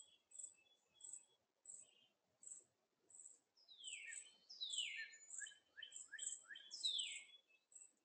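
Songbirds calling: a run of loud, downward-slurred notes in quick succession through the middle, over a high, thin chirp that repeats about twice a second.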